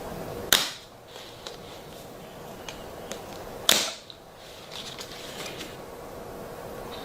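Two sharp cracks, about three seconds apart, with a few faint clicks between them.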